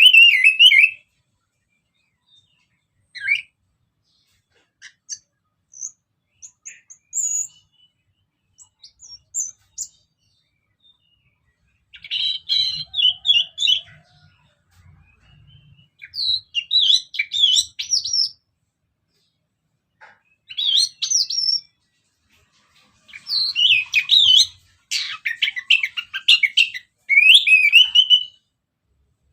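Orange-headed thrush singing: rapid, varied warbling phrases a few seconds long, separated by pauses with a few faint, high single notes between them.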